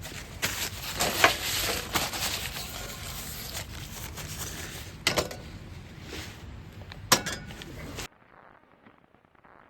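Handling noises: rustling with scattered clinks and sharp knocks, like gear or utensils being moved about. About eight seconds in it cuts off suddenly to a faint hiss.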